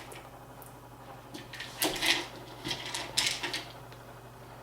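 Hands rummaging through small screws and parts while hunting for the power supply screws: a handful of short clicks and rattles about two seconds in and again around three seconds, over a steady low hum.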